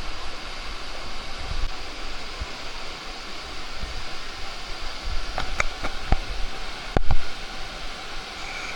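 Steady rush of a waterfall, with a handful of sharp knocks a little past halfway, the loudest about seven seconds in.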